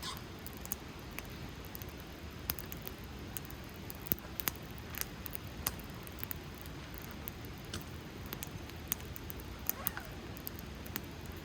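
Wood fire burning, crackling and popping in irregular sharp snaps over a steady low noise.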